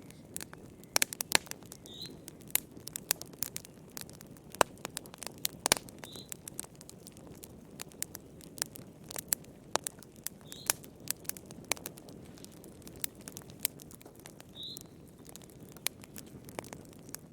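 Wood fire crackling in a fireplace: irregular sharp pops and snaps over a low, steady rush of flame. A faint short high chirp recurs about every four seconds.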